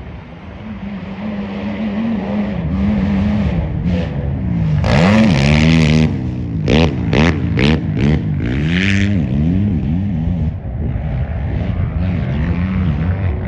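Motocross race engines revving hard, their pitch swinging up and down with throttle and gear changes and growing louder over the first couple of seconds. About five seconds in there is a loud burst, then a run of quick throttle blips.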